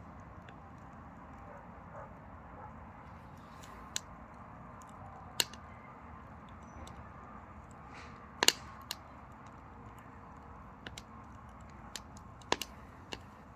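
Pine firewood burning in a small wood stove: scattered sharp pops and crackles a second or a few seconds apart, the loudest a double pop about halfway through, over a steady low rush of the fire.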